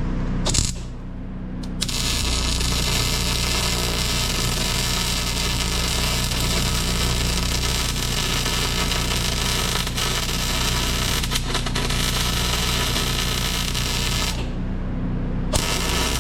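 Electric welding arc hissing and crackling steadily for about twelve seconds, breaking off briefly near the end and then striking again, over a steady low hum.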